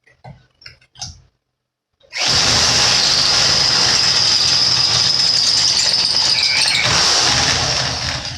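Power drill with a large step drill bit boring through a steel receiver hitch: a few light clicks, then about two seconds in the drill runs hard and steadily for around five seconds, with a high metal-cutting whine, before winding down near the end.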